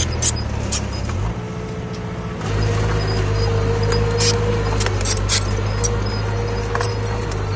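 Heavy diesel engine of earthmoving machinery running steadily, easing off briefly and picking up again about two and a half seconds in. Short, sharp high-pitched clicks and squeaks are scattered over it.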